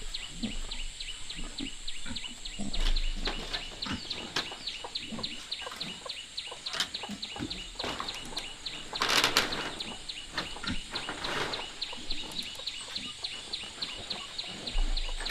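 Outdoor ambience: a short high chirp repeating evenly about four times a second over a steady high whine, with scattered soft knocks and a brief louder rustling noise about nine seconds in and again near eleven and a half seconds.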